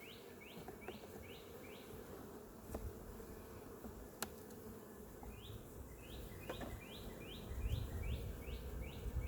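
Honeybees buzzing steadily around an open hive. High, quick falling chirps repeat about three times a second at the start and again from about halfway on, with a few light clicks.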